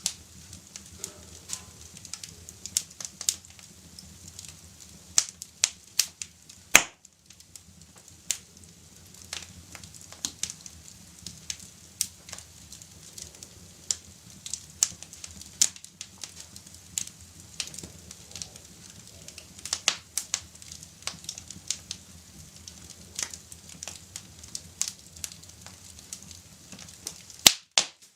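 Wood fire crackling in a fireplace: sharp, irregular pops and snaps over a low, steady rumble, with two louder pops about seven seconds in and near the end.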